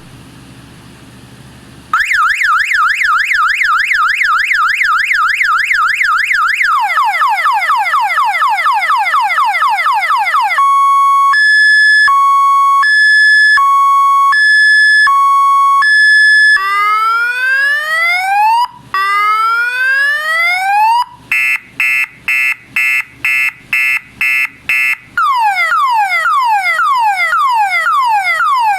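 Small 4-inch electronic siren horn, loud, cycling through its tones: starting about two seconds in with a fast up-and-down warble, then quick repeated falling sweeps, a two-note high-low alternation, two slow rising wails, a rapid string of beeps about twice a second, and fast falling sweeps again near the end.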